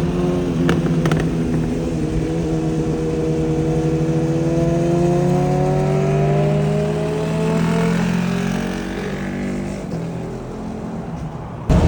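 Sport motorcycle with a titanium full exhaust accelerating through a gear. Its engine note rises steadily for about eight seconds, then fades. A louder engine sound cuts in abruptly just before the end.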